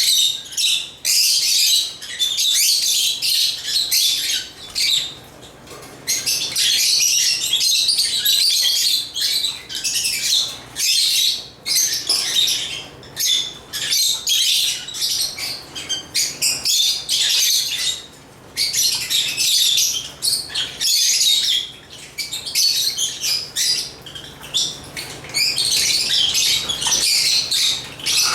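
African lovebirds chirping and twittering in fast, high-pitched runs with only brief pauses.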